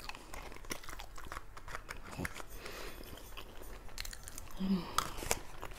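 Close-miked chewing and biting of a mouthful of fries, with small irregular clicks of a plastic fork against a plastic takeout tray.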